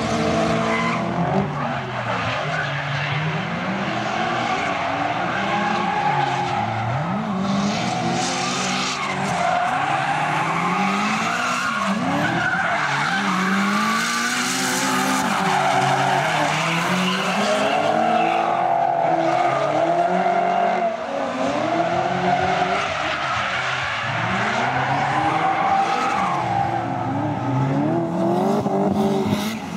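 V8 engine of a BMW E30 drift car revving up and down again and again as the car powerslides, with its tyres squealing and skidding underneath.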